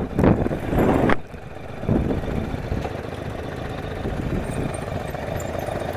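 Yamaha motorcycle engine running, louder for about the first second, then dropping suddenly to a steady idle.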